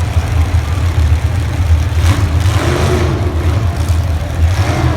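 Demolition derby cars' engines running, a steady low rumble, with a brief louder rush of noise about two seconds in and again near the end.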